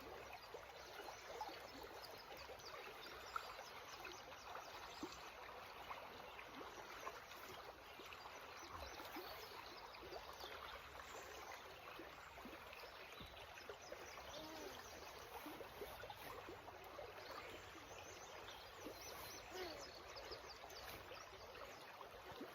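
Faint, steady rush and babble of a flowing creek. One brief tap about three seconds in.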